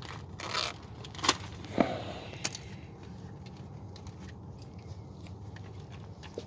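Handling noise of hands working on parts: a few separate sharp clicks and rustles in the first two and a half seconds, then only a steady low hum.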